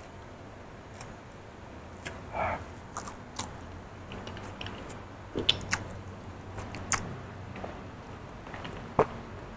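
Close-miked chewing of raw cucumber with sambal: irregular wet crunches and clicks, picked up by a clip-on mic. Near the end he drinks from a bottle.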